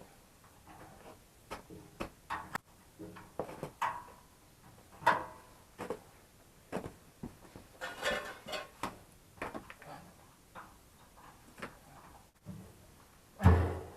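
Irregular clicks, knocks and rustles of gear and tools being handled and set down, with one heavier thump near the end.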